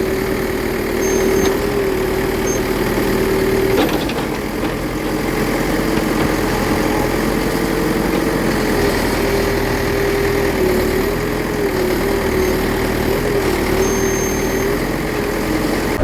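Small electric motor of a remote-control toy construction vehicle running with a steady whine that wavers slightly in pitch, over a constant rushing hiss, with a single click about four seconds in.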